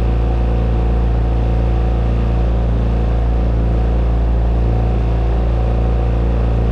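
Motorboat's engine running at a steady speed, heard from on board as a constant low drone with even engine tones above it.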